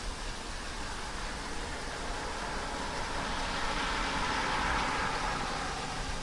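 Steady rain with a vehicle passing on a wet road, its tyre hiss swelling over the second half and fading near the end.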